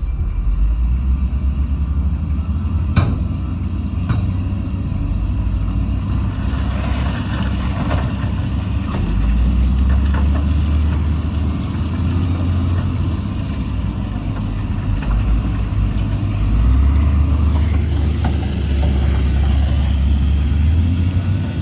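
Heavy diesel construction machinery, such as a dump truck or wheel loader, running with a deep, steady engine rumble. There is a sharp knock about three seconds in and a hiss from about six to nine seconds.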